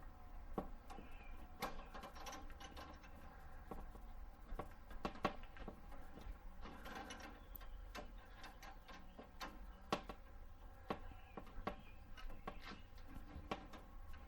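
Scattered small metallic clicks and clinks of a wrench working on a brake line compression fitting as it is snugged tight, over a low steady hum.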